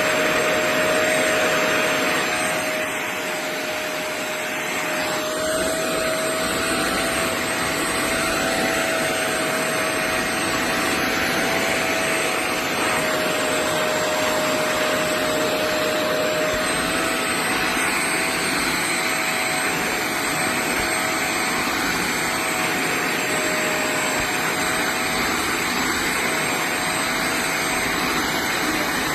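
Rivenara 450 W upholstery wet vacuum cleaner running steadily: a loud rush of suction with a steady motor whine whose pitch wavers slightly, dipping a little about three to five seconds in.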